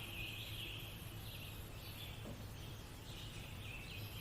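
Nature-sounds background track: a continuous run of short, high chirps repeating every half second or so, over a faint low hum.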